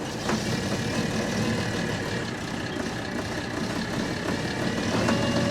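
A Volvo work machine's diesel engine idling just after a cold start, its pitch and loudness rising slightly about five seconds in.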